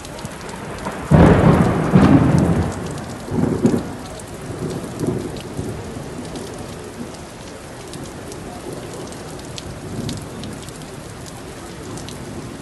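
Steady rain falling, with many small drop ticks. A loud thunderclap breaks in about a second in and rolls on in deep rumbles that fade over the next few seconds, with fainter rumbles later.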